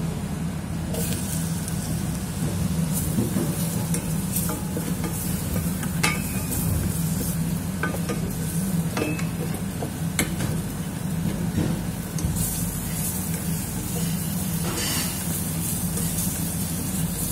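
Sliced mushrooms sizzling in butter and garlic in a stainless steel saucepan. The sizzle starts about a second in. A wooden spatula stirring them scrapes and clicks against the pan now and then, over a steady low hum.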